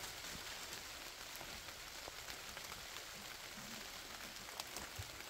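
Light rain falling in a forest: a faint, steady hiss with scattered small drips and ticks.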